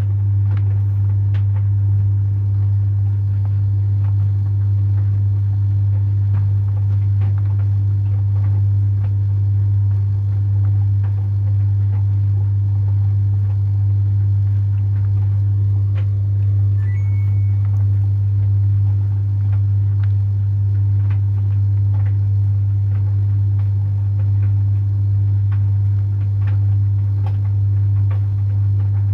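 Samsung heat pump tumble dryer running a load of towels: a deep, steady hum from the heat pump and drum, with faint scattered ticks.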